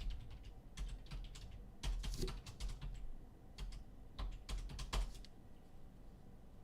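Typing and clicking on a computer keyboard: a run of irregular key taps that stops about five seconds in.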